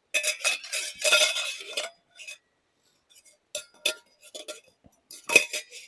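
Camp cookware clinking and clattering as it is handled: a busy clatter with a metallic ring for the first two seconds, then scattered separate clinks, the sharpest near the end.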